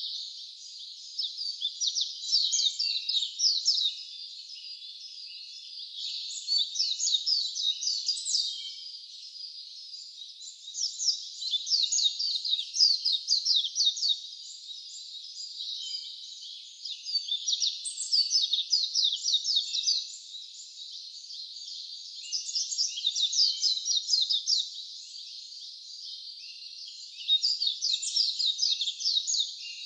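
A songbird singing rapid, high-pitched trilling phrases, each about two to three seconds long, repeated roughly every five seconds, over a steady hiss of running brook water.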